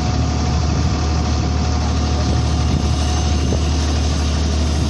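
Boat engine running steadily on board, a constant low drone under an even rushing noise.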